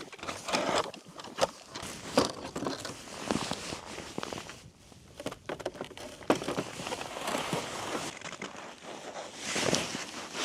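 Irregular crunching steps and knocks on snow-covered ice, with a short lull in the middle and a busier patch of crunching near the end.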